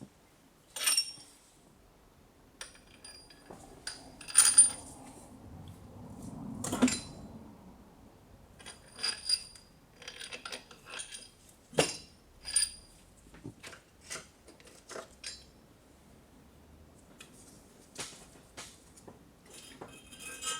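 Irregular metallic clinks and knocks of hand tools and metal parts being handled, several of them ringing briefly.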